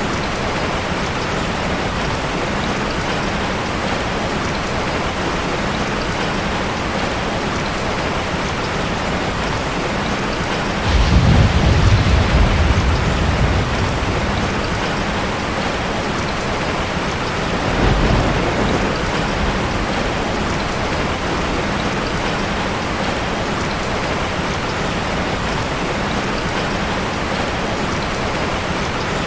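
Heavy rain falling steadily in a dense, even hiss. About a third of the way in, a low rumble of thunder swells up suddenly and lasts a few seconds, and a weaker rumble follows several seconds later.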